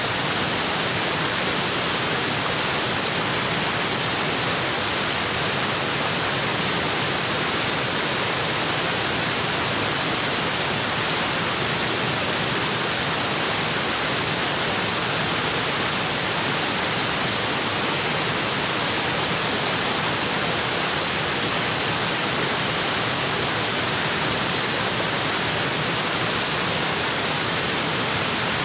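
Small waterfall pouring onto rocks: a steady, even rush of water, strong in the high range, unchanging throughout.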